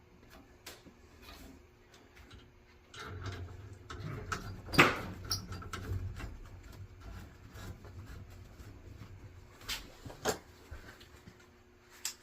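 Scattered clicks and knocks of gas pipe fittings and tools being handled, the sharpest one about five seconds in, over a low steady hum that comes in about three seconds in.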